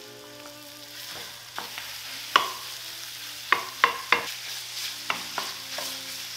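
Pork sausage sizzling as it browns in melted butter in a white enamel skillet, with a wooden spoon stirring and breaking it up; the spoon knocks sharply against the pan about eight times.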